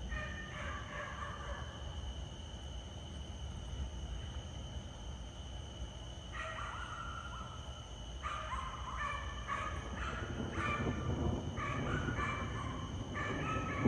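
Night-time outdoor ambience: a steady high insect drone under bouts of repeated animal calls that grow more frequent after the middle, with a low rumble building toward the end.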